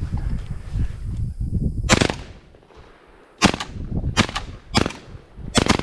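Shotgun shots at pigeons: about five sharp blasts fired in quick succession, starting about two seconds in, over a low rumble.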